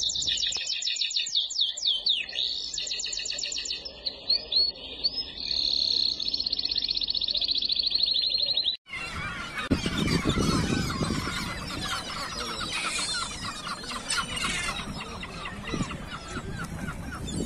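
Songbird singing in rapid, high-pitched trills. About nine seconds in it cuts off abruptly, replaced by a busier, noisier stretch of bird calls.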